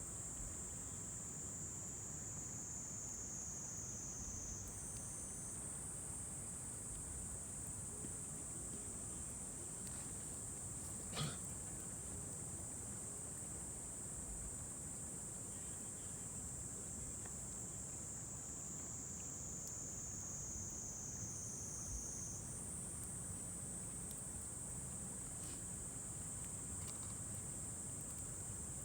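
A steady high-pitched chorus of evening insects over a low background rumble, with one sharp pop from the wood fire about eleven seconds in.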